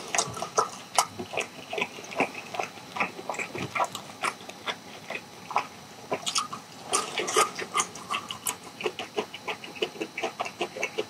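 A person chewing sauced charcoal-grilled chicken up close: wet smacking and squelching mouth sounds with many short, irregular clicks, several a second.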